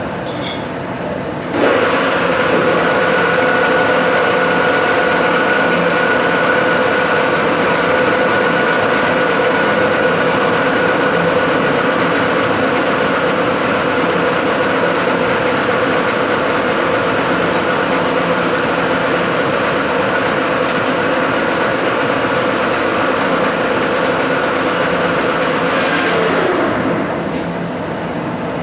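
A metalworking machine tool starts abruptly and runs with a steady, loud mechanical noise and a steady whine. Near the end it winds down, its pitch falling as it stops.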